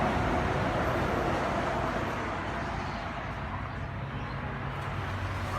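Steady background noise: a low rumble with a hiss over it, fading slightly toward the middle.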